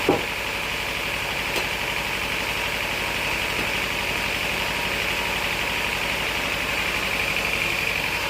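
Sawmill machinery running steadily, with a short knock just after the start and a fainter one about a second and a half in.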